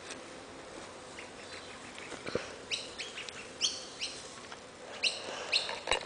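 A bird chirping in the second half: a run of short, high, falling chirps, a few in quick succession. A single sharp knock comes just before, about two seconds in.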